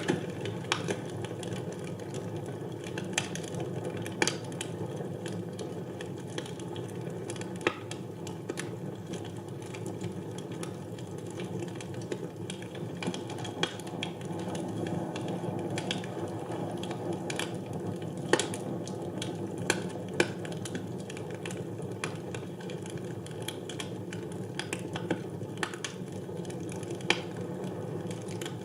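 Wood fire burning in a fireplace, crackling with frequent irregular sharp pops over a low, steady noise from the flames.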